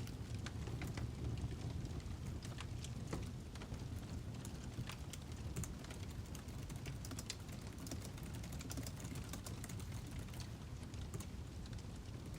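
Wood fire crackling: irregular sharp pops and snaps over a low, steady rumble of the flames.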